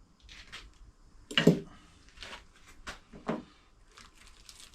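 A few sharp knocks and clicks from hardware being handled while bolts and washers are sought in a parts drawer. The loudest knock comes about one and a half seconds in, another about three seconds in.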